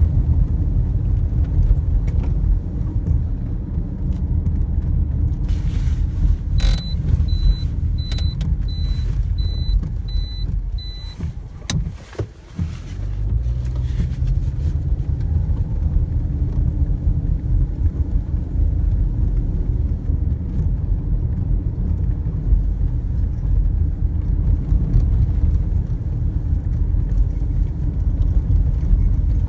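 Steady low rumble of a running vehicle, as heard from inside it. About seven seconds in, a run of short high beeps repeats evenly, about one and a half a second, for some four seconds. Around twelve seconds the rumble drops briefly, then comes back with a rising engine note.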